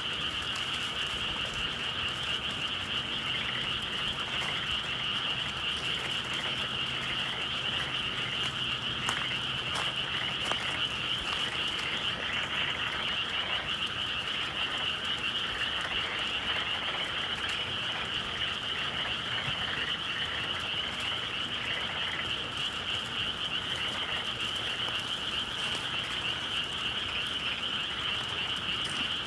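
Dense chorus of many frogs calling together in a continuous, unbroken high-pitched trilling mass with no pauses, typical of paddy fields on a spring evening.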